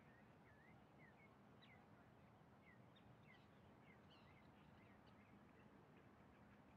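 Near silence, with faint short bird chirps, a couple a second, over a faint steady low hum.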